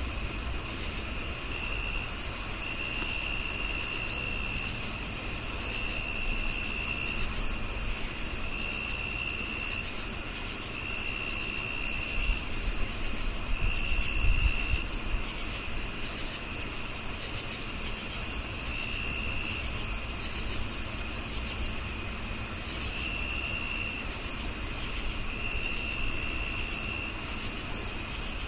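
Crickets chirping in a chorus: a continuous high trill, a regular chirp about twice a second, and a lower trill in bursts of about a second every couple of seconds. A brief low rumble comes about halfway through.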